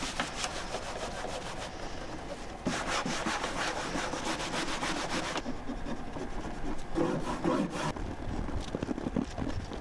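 Quick, repeated rubbing or scrubbing strokes, getting louder about three seconds in and stopping a little after five seconds, followed by softer, scattered scraping.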